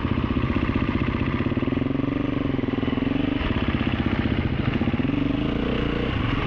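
Enduro motorcycle engine running at low speed, its revs rising and falling slightly with the throttle.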